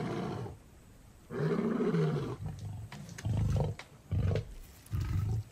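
Male lions roaring: one long deep roar, then three shorter grunting roars in a falling-away series. This is the territorial roar, a display of dominance announcing location and ownership to neighbouring prides.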